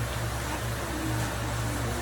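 Steady low hum with an even hiss of background noise, and no distinct knocks or strikes.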